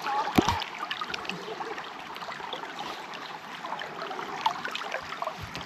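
River water splashing and trickling around a person wading in waders, with many small irregular splashes and one sharp knock about half a second in.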